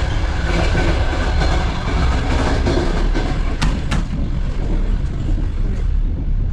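Passenger train running, heard from inside the carriage: a steady, loud low rumble and hiss of wheels on the rails. Two sharp clicks come just past the middle, and the hiss softens a little after them.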